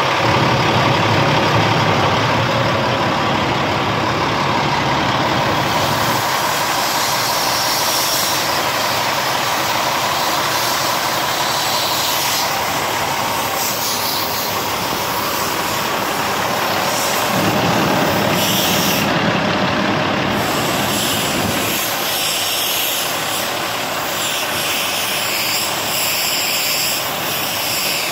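A heavy diesel truck running steadily, with short hisses of air now and then.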